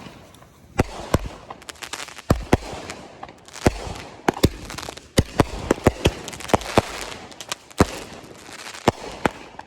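Consumer fireworks going off in an irregular string of sharp bangs and crackles, a dozen or more cracks spread over several seconds.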